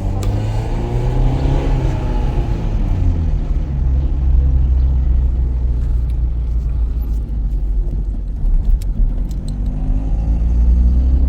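A motor vehicle's engine running with a loud, deep, steady rumble. Its pitch shifts up and down in the first few seconds.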